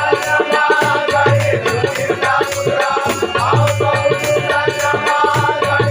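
Traditional bhajan accompaniment: fast, even clashing of small hand cymbals (tal) over repeating low drum strokes, with sustained harmonium-like tones.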